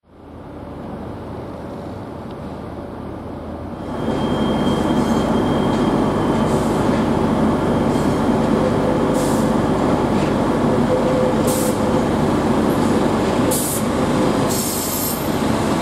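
Diesel multiple unit train moving through a station: a steady rumble of engine and wheels that grows louder about four seconds in, with a few sharp clacks from the wheels over the rails.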